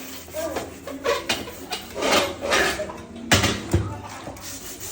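Irregular clattering and knocking of hard objects being handled, with some scraping, and one louder knock a little over three seconds in.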